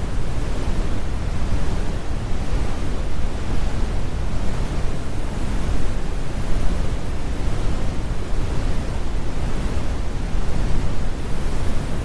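Steady synthetic brown noise: a deep, even rumble with most of its energy in the low end and the highs rolled off.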